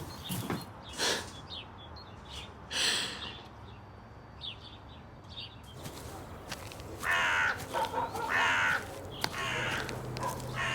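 Crow cawing: two harsh caws in the second half, over faint outdoor background with a few scattered clicks.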